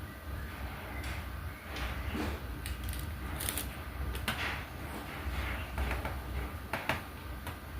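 Diamond painting work: small plastic clicks, taps and short scrapes of a drill pen and resin drills, irregular and a second or so apart, over a steady low hum.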